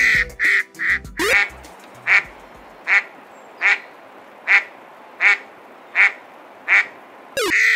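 An eastern spot-billed duck quacking while asleep: a few quick quacks, then a steady series of single short quacks, about one every three-quarters of a second.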